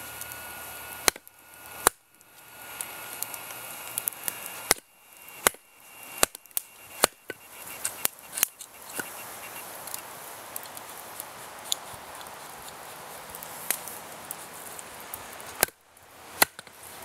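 Firewood being split with a Bear Grylls Ultimate Survival Knife: sharp knocks at irregular intervals as the blade is driven through knotty wood, over a steady hiss.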